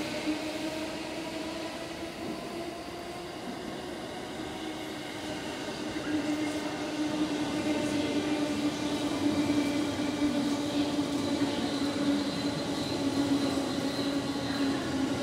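Sotetsu 12000 series electric commuter train running along the platform: a steady rumble with humming tones from the running gear. It grows louder about six seconds in as the cars come alongside.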